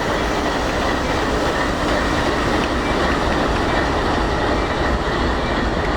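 Train cars rolling past on the rails with a steady, loud, even roar of wheels on track.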